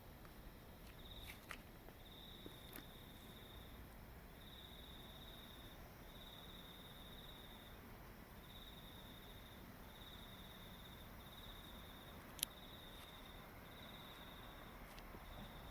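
A night insect trilling faintly in high, pulsing phrases about a second long, one after another with short gaps. There are a few soft clicks, and a single sharp click about twelve seconds in.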